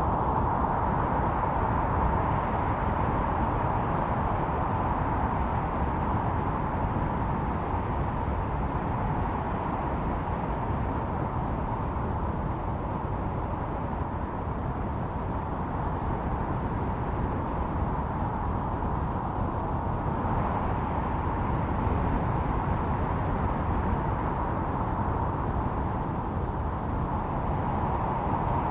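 Snowstorm wind howling, a steady rushing noise with a whistling tone that slowly fades and then swells again near the end.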